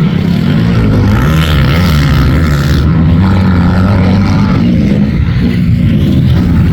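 Motocross bike engines running on the track, their pitch rising and falling as the riders work the throttle.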